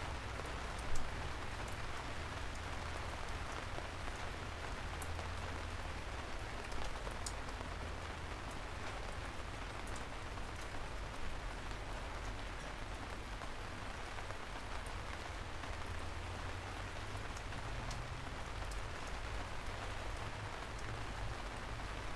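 Steady rain falling on a surface, with scattered sharp drop ticks over an even hiss and a steady low rumble underneath; one louder drop about a second in.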